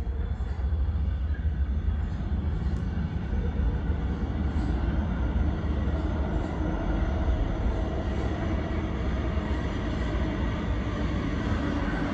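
New York City subway train rumbling in the station, a steady low roar that fills out and grows a little louder in the second half.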